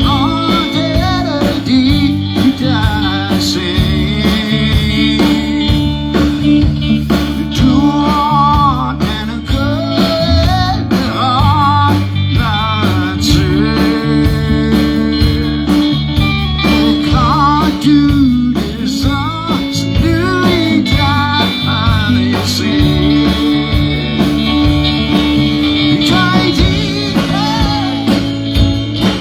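Live band playing a blues-rock song: electric guitar, bass guitar and drums under a wavering lead melody line.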